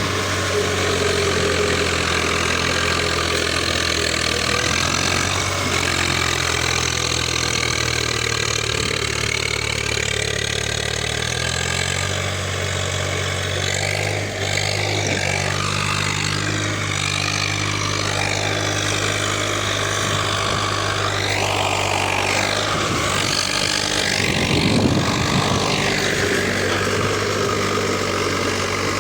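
A 45 hp tractor's diesel engine running steadily, its note shifting about twelve seconds in.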